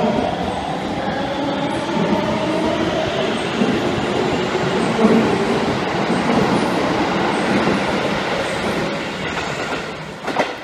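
Electric commuter train running alongside a platform: steady wheel rumble and rattle with a faint motor whine slowly falling in pitch over the first few seconds. The noise fades near the end, broken by a brief sharp burst about ten seconds in.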